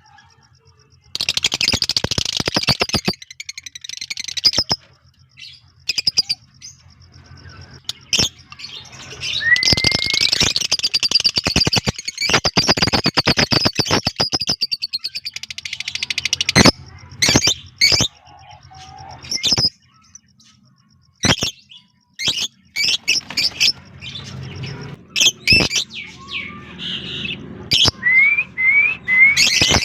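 Lovebirds chattering and chirping: long runs of fast, shrill chirps broken by short gaps, then scattered sharp single chirps and short rising calls.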